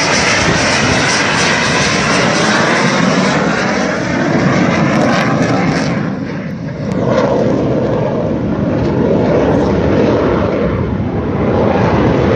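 Loud jet noise from Thunderbirds F-16 fighters passing overhead, with a sweeping shift in pitch as they go by. The noise dips about six seconds in, builds again with another pass, and stays loud near the end.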